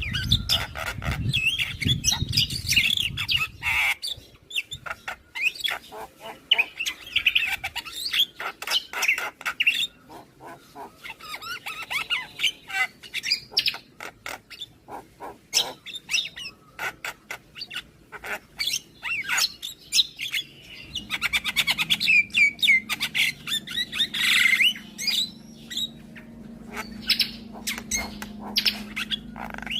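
Javan myna singing: a busy, varied run of rapid clicks, chirps and whistled notes. A low steady hum comes in about two-thirds of the way through.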